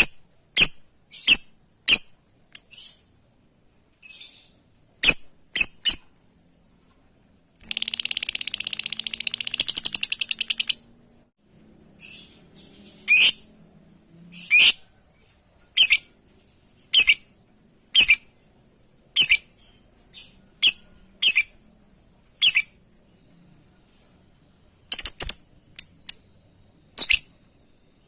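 Lovebird calling to its companions with sharp, high-pitched calls one after another. About eight seconds in comes a burst of rapid chattering lasting about three seconds, and from about thirteen seconds the calls come roughly once a second.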